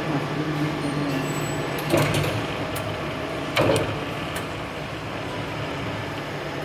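Weiler metal lathe running with a steady mechanical hum, with two sharp knocks about two seconds and three and a half seconds in.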